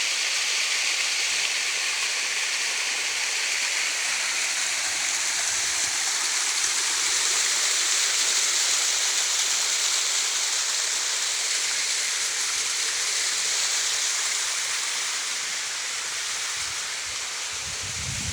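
Steady rush of falling water from a stream or small waterfall, a continuous hiss with no break, fading slightly near the end.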